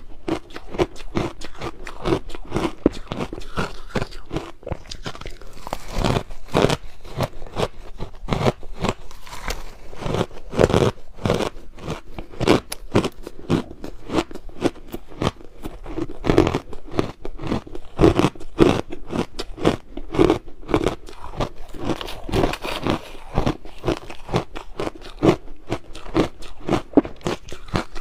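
Crushed ice being bitten and chewed close to the microphone: a continuous run of sharp crunches and crackles.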